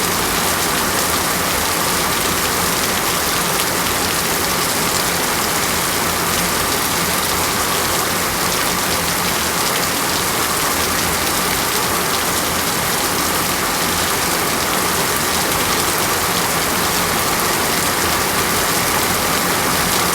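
Steady, heavy rain falling on a surface, an even dense hiss.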